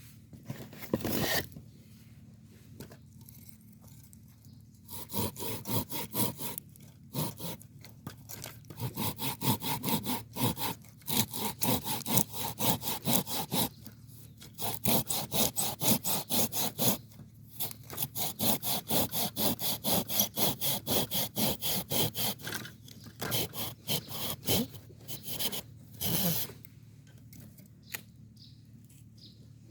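Wood being cut with a hand saw: fast, even back-and-forth strokes, about four a second, with a couple of short pauses. The cutting stops near the end.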